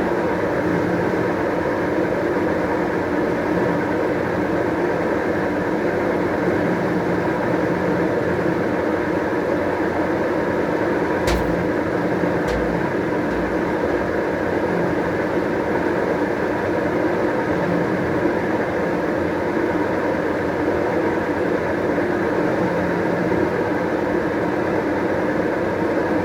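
White-Westinghouse washing machine in its spin cycle, a steady, even whirring drone that the uploader calls a perfect spin. Two short clicks with low thumps come about eleven and twelve seconds in.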